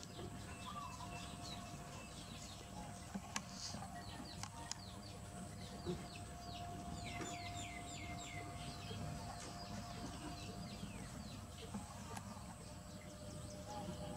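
Small birds chirping in the background: many short, high, downward chirps, thickest around the middle and again near the end, over a steady low hum. A few sharp taps sound between about three and six seconds in.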